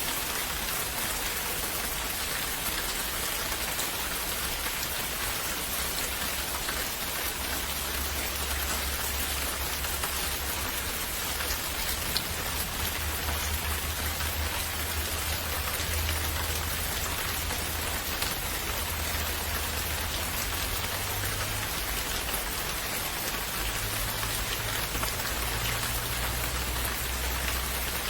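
Steady rain falling, an even hiss with faint individual drop ticks and a low rumble beneath it.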